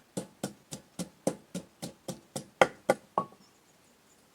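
Pestle pounding in a mortar with a quick, even rhythm of knocks, about four strokes a second, stopping about three seconds in.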